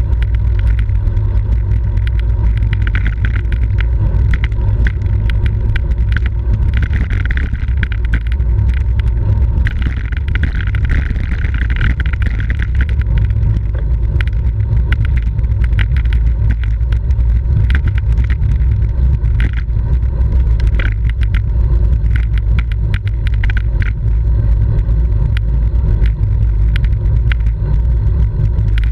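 Wind buffeting a microphone carried on a racing bicycle at speed, a constant heavy rumble, with the hiss of tyres on the road and many scattered light clicks and ticks from the bike.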